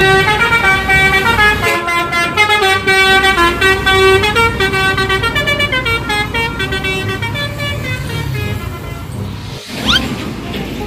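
Telolet bus horn playing a quick multi-note tune, the pitch stepping from note to note, over a low engine rumble. The tune fades out about nine seconds in, and a short sweeping glide follows.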